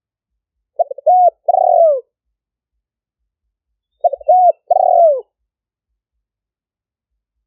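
Spotted dove (decoy cock bird) cooing: two phrases, about a second in and again about four seconds in, each a quick stutter of short notes followed by two longer arching coos.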